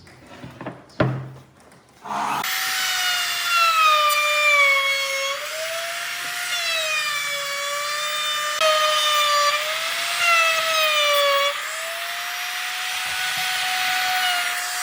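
A few scattered knocks, then a power tool starts cutting wood with a steady whine whose pitch sags and recovers as the load changes.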